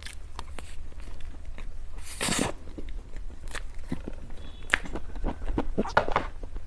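Close-miked mukbang eating sounds: biting and chewing dessert, a run of small wet mouth clicks with one louder, longer burst about two seconds in.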